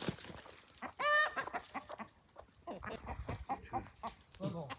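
Chickens clucking: one loud squawk about a second in, then a run of short clucks.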